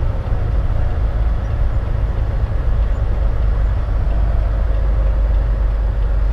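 Steady low rumble inside a semi-truck's cab: the diesel engine idling while strong wind presses against the truck.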